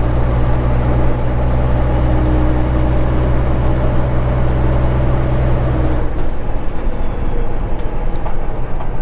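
Straight-piped Cat 3406E inline-six diesel in a semi-truck pulling steadily under load at low RPM. About six seconds in, the steady drone breaks off into a rougher, uneven rumble.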